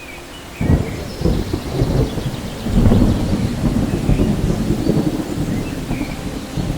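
Thunder over rain: a sudden low rumble breaks in about half a second in, swells to its loudest around three seconds in and keeps rolling, with the hiss of rain underneath.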